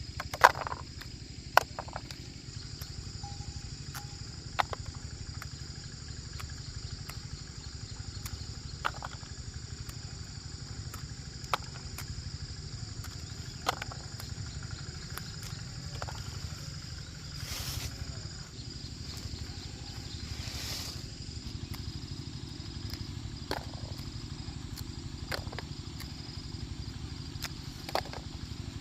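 Outdoor ambience with a steady insect drone over a low rumble, broken by scattered sharp knocks and clacks.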